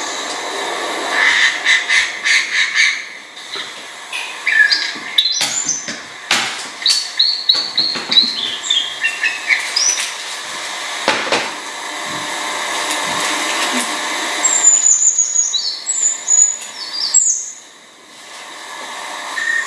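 Birds singing and calling: clusters of chirps, then a run of notes stepping down in pitch, and high, short falling whistles near the end.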